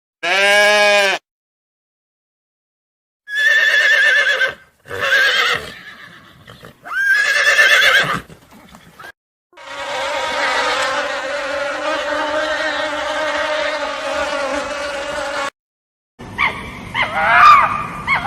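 A string of separate animal calls with silent gaps between them: a short pitched call at the start, three shorter calls a few seconds in, a long steady buzz lasting about six seconds, then quick short calls near the end.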